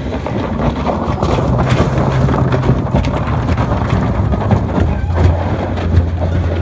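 Wind rushing and buffeting on the microphone over a low, steady motor drone.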